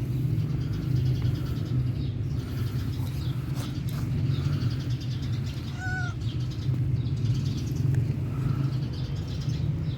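A young tabby cat gives a short meow about six seconds in, with a few faint calls around it, over a steady low rumble.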